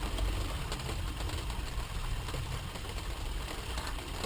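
A steady low mechanical hum, with a few faint clicks of small plastic parts being handled.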